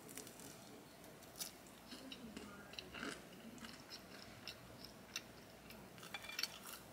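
Faint chewing of a bite of toasted five-cheese garlic Texas toast: scattered small crunches and wet mouth clicks.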